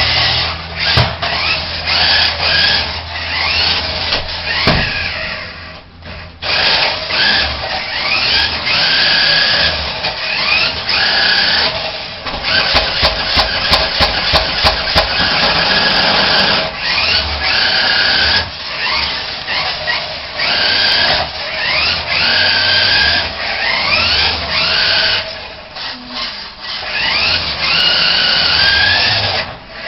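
Remote control truck's motor whining, rising in pitch again and again as it speeds up, in repeated runs with short pauses between them. A quick run of sharp clicks comes about halfway through.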